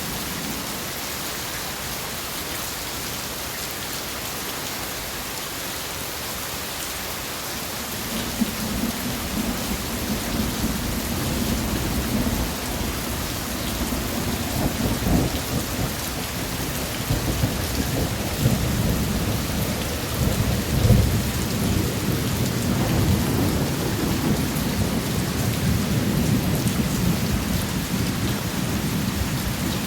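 Steady rain falling hard. From about a quarter of the way in, rolling thunder rumbles under it, growing and peaking about two-thirds through.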